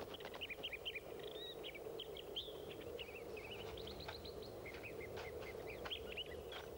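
Small birds chirping in many quick, short notes, scattered throughout, over a steady low hum.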